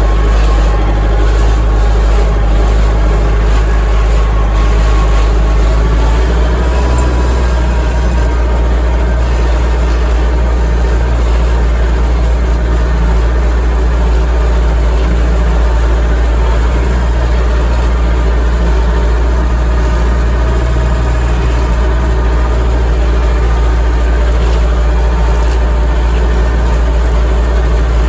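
Dongfeng DF-404 tractor's diesel engine running steadily, with a slight change in its low note about six seconds in.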